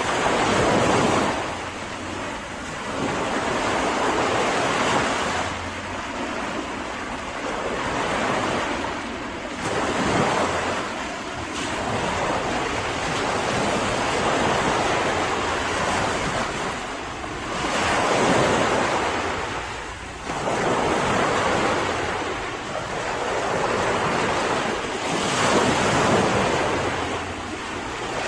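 Mediterranean sea waves breaking on a beach, the wash surging and falling away every few seconds.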